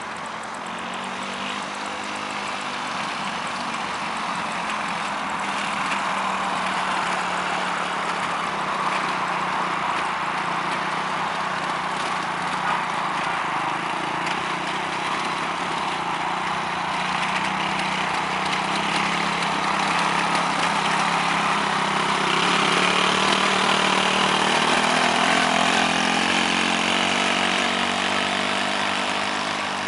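Quad bike engine running steadily, its pitch drifting a little, growing louder toward the last few seconds and then easing off.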